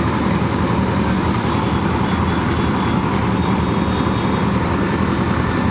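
Engine-driven construction machinery running steadily, a constant loud drone with no break.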